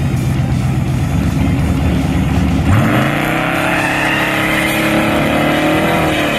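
Twin-turbocharged 6.0 V8 of a 1941 Chevy pickup running with a steady rumble, then revving sharply upward nearly three seconds in and holding at high revs.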